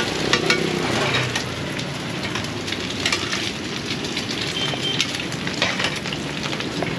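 Hot oil sizzling and crackling in a large wok as bột chiên (fried rice flour cake) and eggs fry over a high flame, with metal spatulas clinking and scraping against the wok in scattered sharp clicks.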